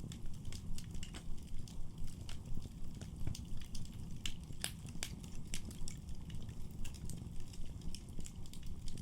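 Wood fire burning in a fireplace, crackling with frequent irregular sharp pops over a steady low rush of the flames.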